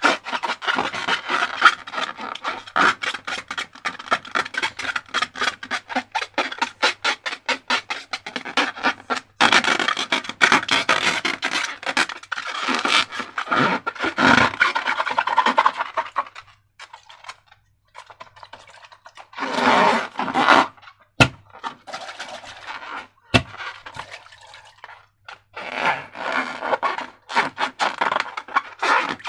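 Sticky slime being squished, stretched and stirred by hand, making dense wet crackling and clicking in long bursts. Twice the crackling pauses briefly, with a few sharp single clicks in the lull.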